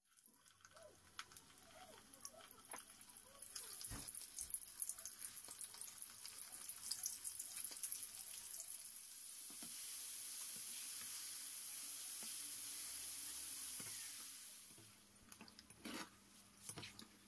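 Flour-coated sardines deep-frying in hot oil in a pan: dense crackling and popping at first, settling into a steady sizzle that dies down near the end. A few light knocks sound near the end.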